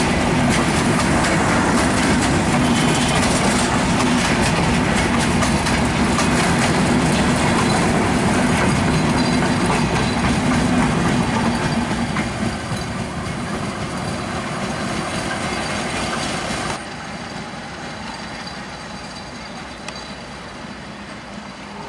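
Bangladesh Railway intercity passenger coaches rolling past close by, wheels clattering on the rails in a loud, steady rush that fades as the train draws away. About three quarters of the way through the sound drops suddenly to a quieter rumble of the train receding.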